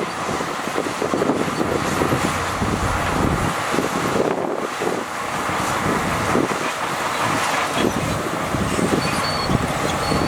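Heavy earthmoving machinery running: a steady, loud diesel engine noise.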